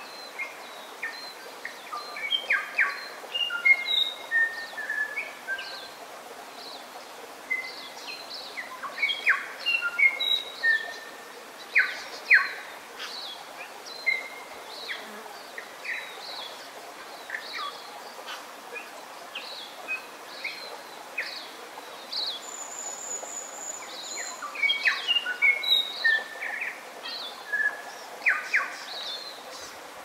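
Several forest birds singing: many short whistled and chirped notes, some sliding up or down in pitch, with a brief high trill about two-thirds of the way through.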